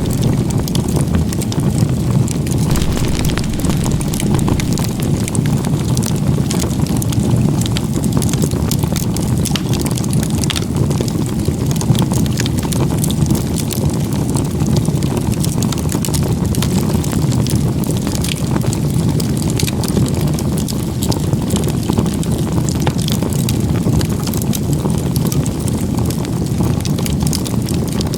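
Campfire burning: a steady low rush with many irregular sharp crackles and pops of burning wood.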